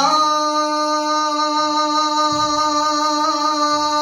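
A male naat singer holds one long, steady note after a short upward swoop, drawing out a syllable of the sung line.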